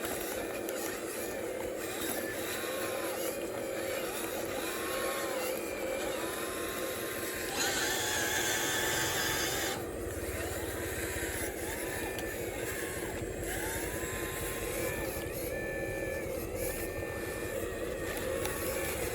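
A machine's engine running steadily, with a louder hissing rush for about two seconds near the middle.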